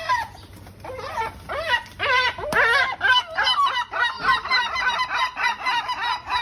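A bird calling over and over in short, rising-and-falling notes. The calls come a few at a time at first, then quicken to several a second after about three seconds.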